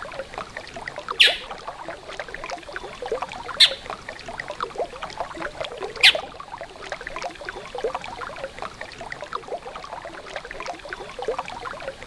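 Flowing river water, a steady rushing and gurgling. Three brief, sharp, high sounds stand out in the first half.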